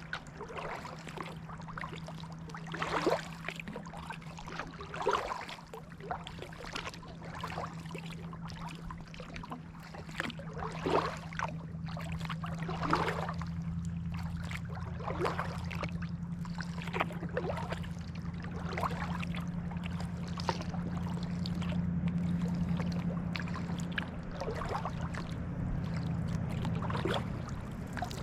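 Kayak paddle blades dipping and pulling through the water, one splash about every two seconds in a steady stroke rhythm, over a steady low hum.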